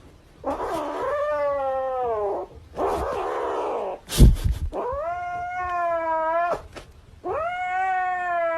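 Domestic cat yowling: several long, drawn-out calls that bend in pitch, with a loud thump a little after four seconds.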